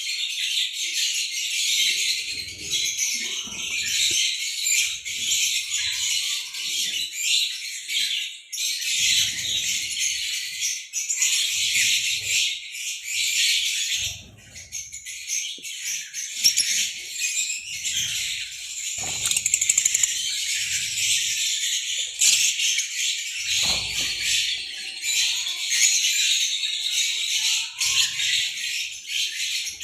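A flock of caged lovebirds chirping nonstop in a dense, high-pitched chatter, with scattered soft low thuds.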